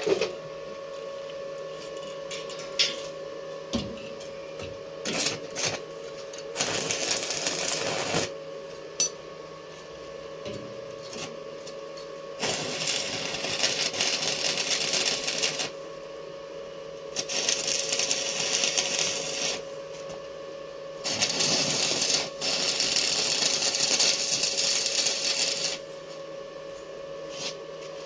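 Electric arc welding on steel: the arc crackles and sizzles in four runs of a few seconds each, the longest near the end, over a steady mains hum. Sharp metal clicks and taps fall between the runs.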